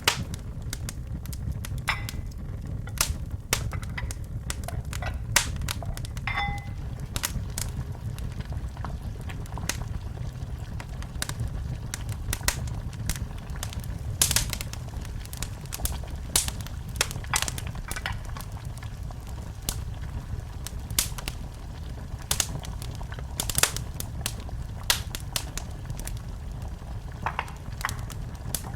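Wood fire burning in a fireplace: a steady low rumble with irregular sharp crackles and pops, and a brief faint whistle about six seconds in.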